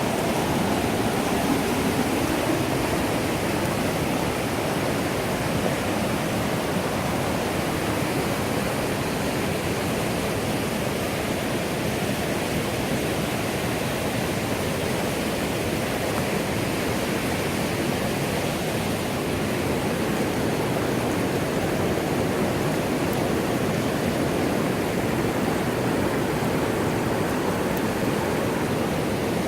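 River water rushing over rocks, a steady even noise.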